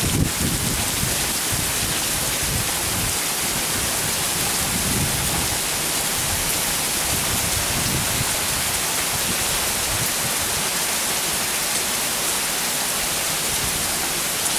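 Heavy rain falling steadily in a thunderstorm, with low rumbles of thunder now and then.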